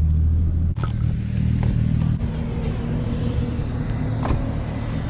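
A car's V6 engine running while driving, heard from inside the cabin. Its strong low drone drops off abruptly under a second in, then it runs on more quietly.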